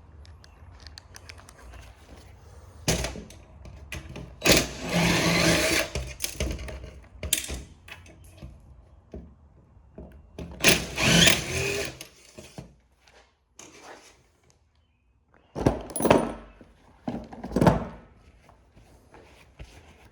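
Dismantling noises from a scrapped printer: several knocks and clunks of metal parts, and two noisy stretches of a second or two each from tool work.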